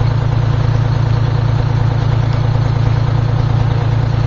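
Vehicle engine idling steadily, a loud low hum with a fast even pulse.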